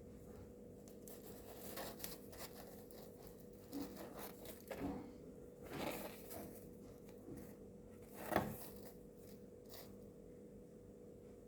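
Soft, scattered rustles, light taps and crackles of dumplings being handled and torn, with one louder crackle a little past eight seconds in, over a faint steady hum.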